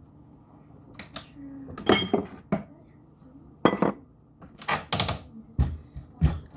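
Kitchen dishes and utensils clattering: a series of knocks and clinks as things are set down and handled, a handful of separate hits with small clusters near the middle.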